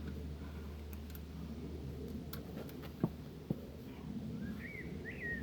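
Two short, sharp clicks about half a second apart over a steady low hum, then a small bird chirping a few quick rising and falling notes near the end.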